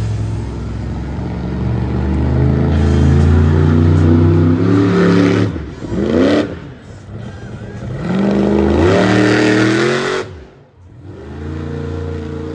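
Monster truck engine at full throttle, revs climbing, then lifting off and blipping about five and a half seconds in, climbing again and dropping away sharply near the ten-second mark before settling back to a steady run.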